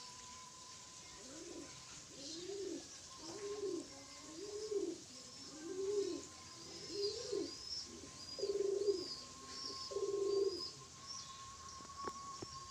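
Domestic pigeon cooing: a run of about eight low coos, each rising and falling, the last two held flatter and longer. A small bird chirps high and fast through the second half.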